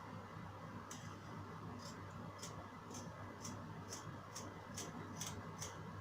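Scissors snipping through fabric: about ten short, crisp snips, coming faster after the first couple of seconds, over a low steady hum.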